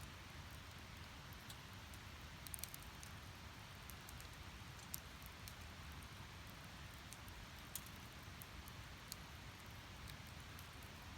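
Split-firewood fire burning, with scattered sharp crackles and pops over a faint steady hiss; a quick cluster of crackles comes about two and a half seconds in.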